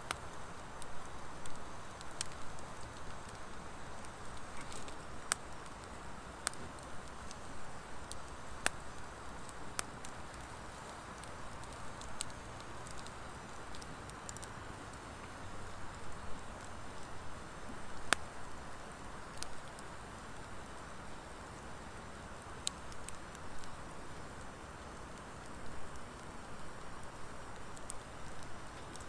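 Wood fire burning in a fire pit: a steady hiss and rustle of flames with sparse sharp crackles and pops from the logs every second or two, one louder pop about two-thirds of the way through.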